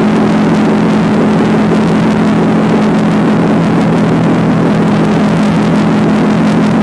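Motorcycle engine running at a steady cruising speed, its note holding level, over a steady rush of wind and road noise.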